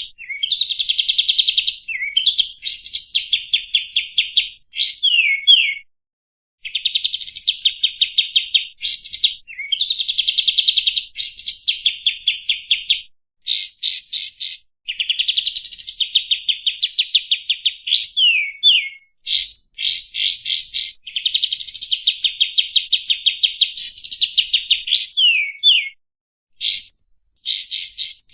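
Kapas tembak songbird singing its chattering song: fast trills of rapidly repeated notes mixed with quick upward and downward whistled slurs, in phrases of one to two seconds with short pauses between them.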